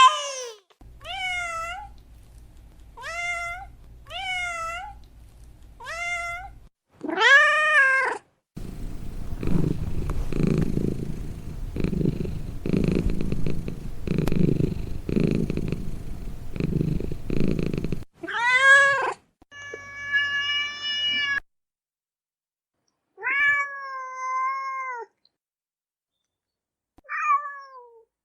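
Domestic cat meowing: a run of short meows, then a long stretch of low, pulsing purring in the middle, then several more meows with pauses between them.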